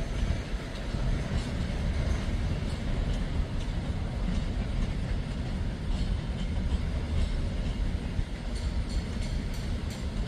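Freight train of open-top hopper cars rolling past on the rails: a steady low rumble with scattered sharp clicks from the wheels, more of them near the end.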